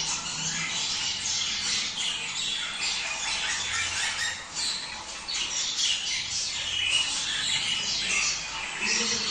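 A group of budgerigars chattering and warbling, a dense run of overlapping short chirps and squawks that goes on without a break.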